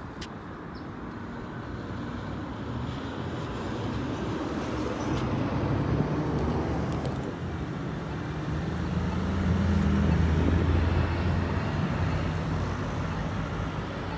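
A large truck's engine running as it approaches and passes, its low hum growing to its loudest about ten seconds in and then easing off, over steady road traffic.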